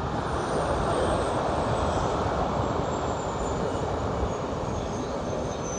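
Jet airliner turbofan engines running, a steady rushing noise with a thin high whine that slowly falls in pitch.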